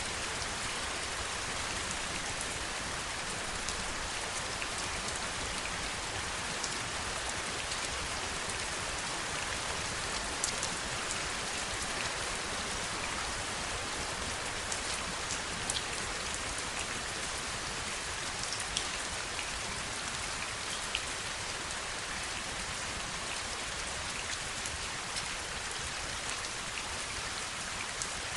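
Steady heavy rain, a dense even hiss with scattered sharper drop ticks.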